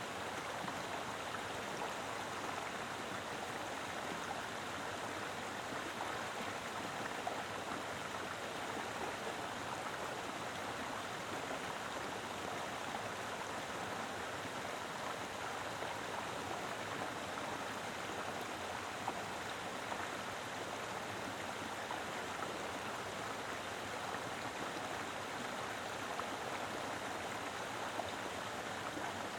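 A mountain river flowing strongly over rocks: a steady, full rush of water with small splashes here and there.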